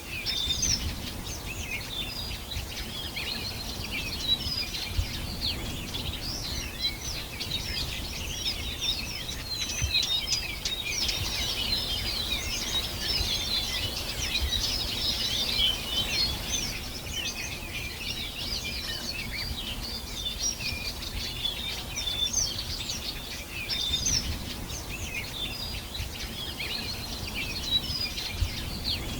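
Many small birds chirping and singing at once, a dense, continuous chorus of high chirps and trills. Beneath it runs a low rumble with a few brief dull thumps.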